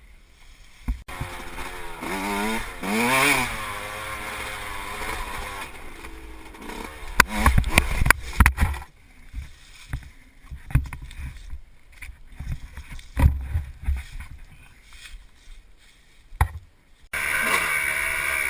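Dirt bike engine revving up and down, then several sharp knocks and heavy thumps about seven to nine seconds in. A quieter stretch with a few scattered thumps follows, and a loud engine sound cuts in near the end.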